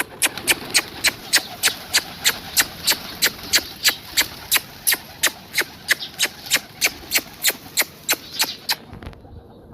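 Rapid, even clicking at about three to four sharp clicks a second, stopping about nine seconds in.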